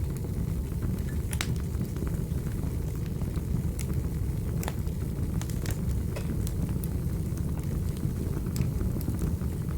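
Wood fire crackling in a fireplace: sharp pops and snaps at irregular intervals over a steady low rumble of the burning logs.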